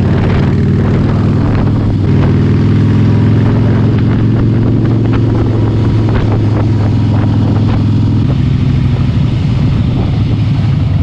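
Harley-Davidson motorcycle's V-twin engine running steadily under way. The engine note steps down slightly about eight seconds in.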